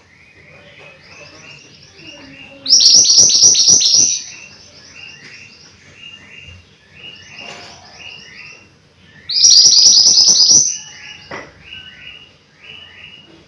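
Mantenan gunung songbird singing: a steady run of short repeated chirping notes, twice broken by a loud, fast, high trill about a second and a half long, near the start and again past the middle.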